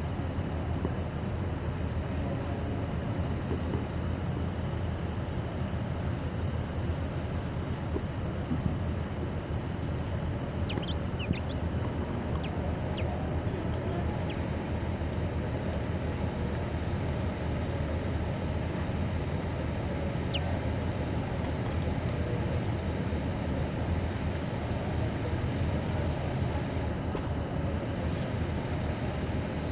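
Steady low rumble of a running vehicle, with a few faint, short, high chirps about a third of the way in and once more about two-thirds in.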